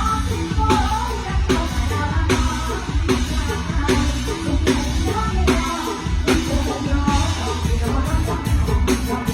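Live mor lam band music over a loud PA: a singing voice over a drum kit and bass, with drum hits on a steady beat.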